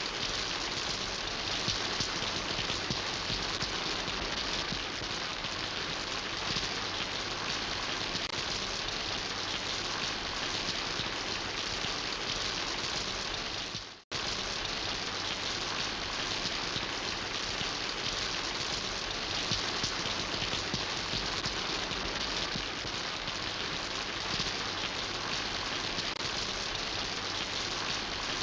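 Steady rain falling, an even hiss of many drops. Just before halfway it fades out to silence for a moment and then cuts straight back in, like a splice in a looped recording.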